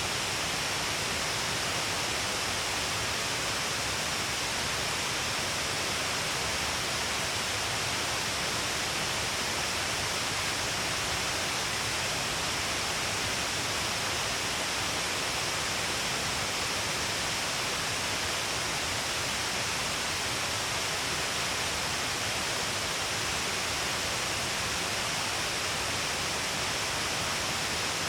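Shiraito Falls, many streams of water falling along a cliff face: a steady, unbroken rush of water, heavy in the treble, with no change.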